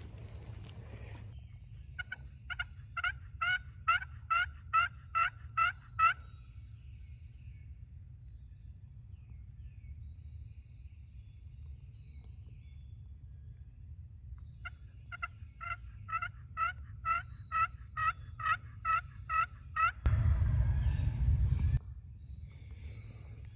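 Turkey yelping in two series of about a dozen evenly spaced notes, roughly three a second, one series early and one later. A loud rumbling noise runs for about two seconds near the end.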